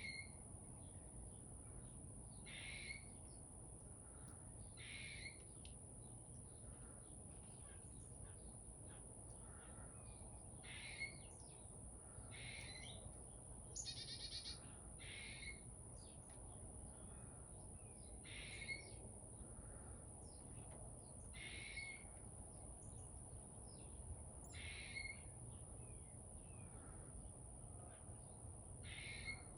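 Chickadee calling over and over, short calls about every two to three seconds, with a steady high-pitched whine underneath.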